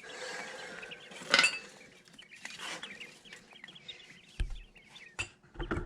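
Young brooder birds peeping steadily in quick high chirps, with several sharp clattering knocks as containers and gear are moved about; the loudest knock comes about a second and a half in.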